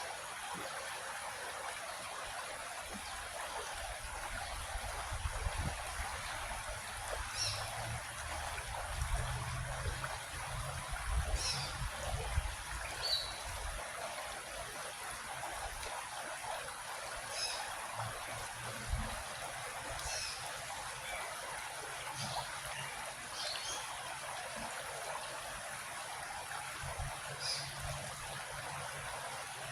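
Small creek flowing and trickling steadily over rocks, with short high bird chirps every few seconds and some low rumbling in the middle stretch.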